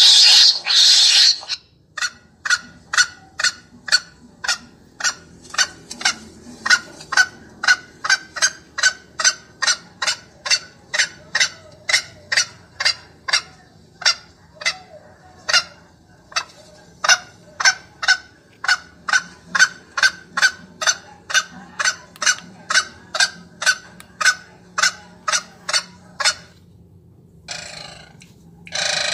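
A recorded bird call played through a bird-caller speaker: short pitched notes repeated evenly about twice a second, after a brief loud burst of hiss at the start and a few more bursts of hiss near the end.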